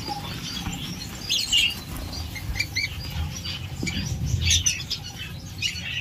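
Small aviary birds chirping in short, scattered calls, over a soft low rumble.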